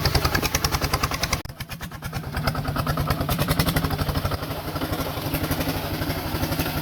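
Small tractor engine running with a rapid, even chugging beat; the sound drops suddenly about a second and a half in, then picks up again and keeps running steadily.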